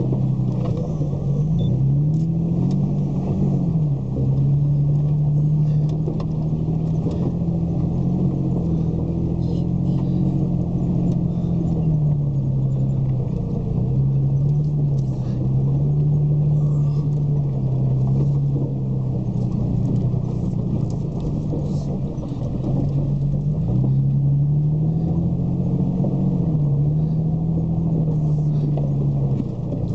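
Toyota FJ's engine pulling steadily in four-wheel-drive low range. Its low hum rises and falls slowly in pitch as the revs change, with light rattles and clicks over it.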